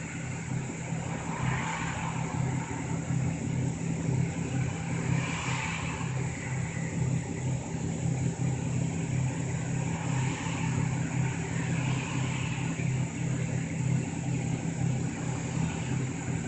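Route bus engine running while the bus drives along, heard from inside the passenger cabin as a steady low drone with road noise that swells every few seconds.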